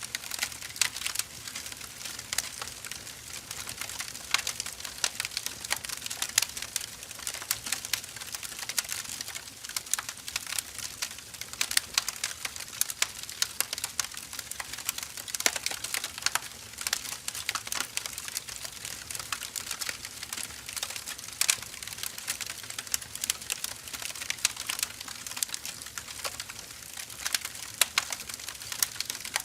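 Firewood burning in an open fire, with a constant irregular crackle of many small sharp pops and snaps over a soft hiss.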